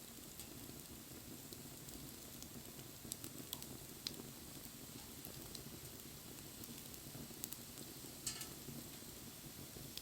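Wood fire burning, a low steady rush broken by a handful of sharp crackles and pops, the loudest about eight seconds in.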